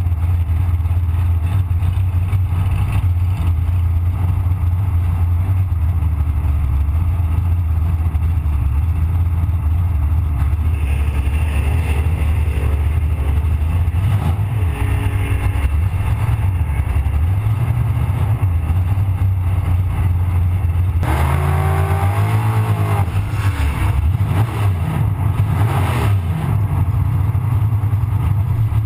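Nostalgia AMC Pro Stock drag car's engine running at a steady, heavy idle as the car rolls slowly. About 21 seconds in comes a brief louder stretch of engine sound that rises and falls in pitch.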